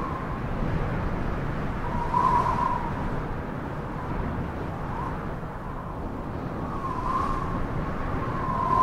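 Road traffic noise: a steady rumble and hiss, with a few brief warbling tones rising and falling near the same pitch, about two seconds in and again near the end.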